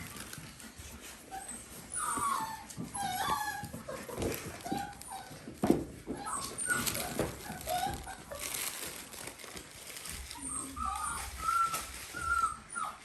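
Young Dalmatian puppies whimpering and squeaking in short, high calls, in bursts from about two seconds in and again near the end, with scuffling and knocks from their play.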